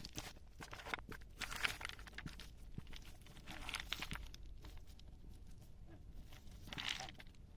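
Footsteps crunching and scraping on loose gravel, with louder crunching scrapes about one and a half, four and seven seconds in.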